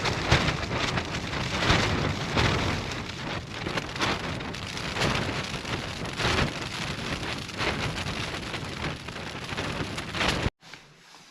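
Heavy rain with gusting wind, a dense, loud patter with a low rumble of wind on the microphone, stopping abruptly near the end.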